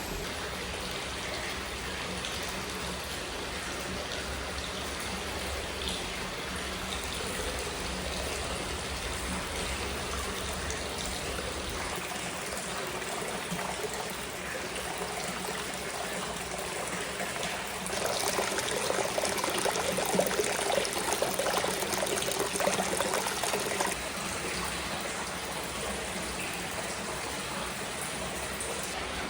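Hot spring water running and trickling into a bath, a steady splashing flow that grows louder for about six seconds past the middle.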